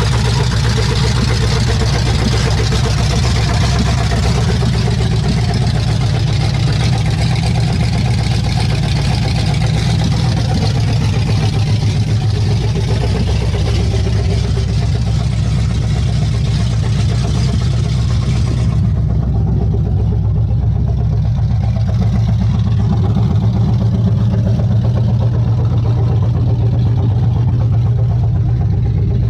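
Chevrolet ZZ4 350 small-block V8 crate engine, freshly installed in a C10 pickup and still without an exhaust system, running at a steady idle. Its upper hiss drops away suddenly about two-thirds of the way through while the low engine note carries on.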